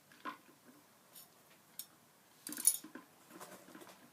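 Light taps and clicks of a plastic bottle being handled, with a brief burst of crinkling clicks a little past halfway through.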